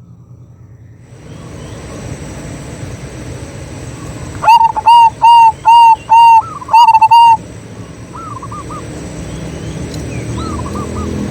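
Zebra dove calling: a loud run of about six quick, ringing cooing notes about four seconds in, followed by two fainter, shorter phrases from more distant doves. A steady hiss sits behind it, with a thin high steady tone.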